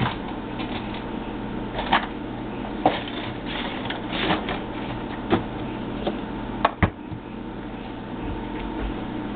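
Keurig single-cup coffee maker brewing: a steady pump hum, broken by several sharp clicks.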